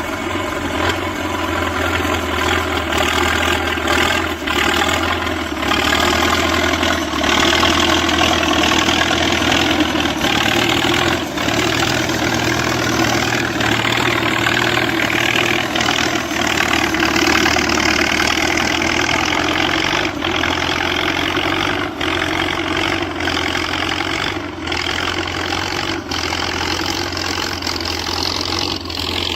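Diesel engine of a T-74 crawler tractor running steadily under load, a little louder for a stretch in the middle, with scattered short clanks.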